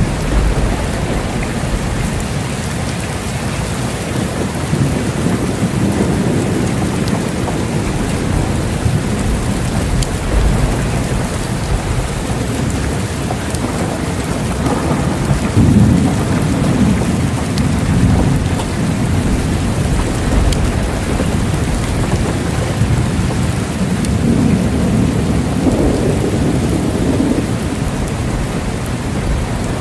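Steady heavy rain with rolling thunder: deep rumbles swell about halfway through and again near the end.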